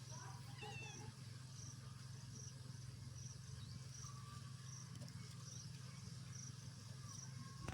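Bees humming steadily at the hive, with a high insect chirp repeating a little more than once a second and a few faint bird chirps near the start.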